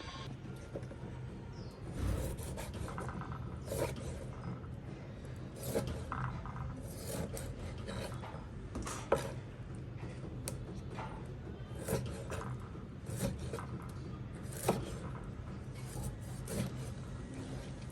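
Scraping and rubbing on wood, with sharp knocks every second or two, over a steady low hum.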